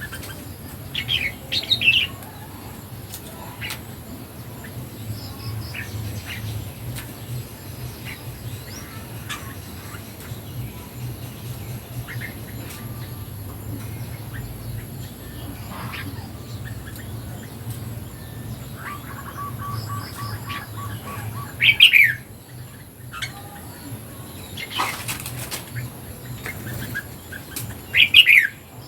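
Red-whiskered bulbul calls: short, loud bursts of sweeping chirps about a second in, about two-thirds of the way through and again near the end, with fainter calls between.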